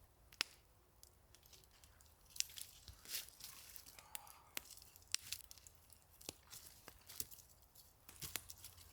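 Wood campfire crackling, with irregular sharp pops and snaps from a fire burning hot on freshly laid logs.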